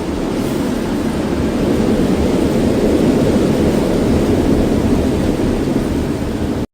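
Steady, loud, low rushing noise with no distinct tones or knocks.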